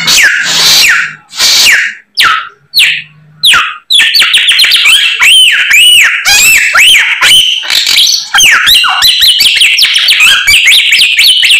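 A samyong songbird singing loudly in rapid, varied whistled phrases of sliding and arching notes, its song full of learned imitations of other birds. It sings in short broken phrases with brief pauses at first, then in a continuous stream from about four seconds in.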